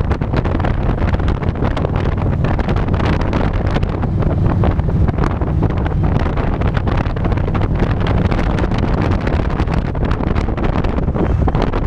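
Wind buffeting the microphone over the steady low running of a Harley-Davidson Electra Glide's V-twin engine while riding.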